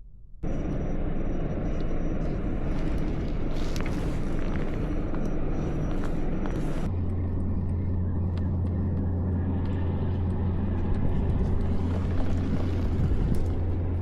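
Motorboat engine running under way, with a steady noise of wind and water. About seven seconds in, a strong steady low hum comes in and holds.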